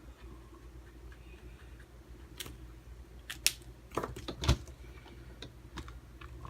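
Quiet hand work with a marker on a desk: a few light plastic clicks and taps, clustered about two and a half to four and a half seconds in, the loudest a click with a dull knock near the four-and-a-half-second mark, over a low steady room hum.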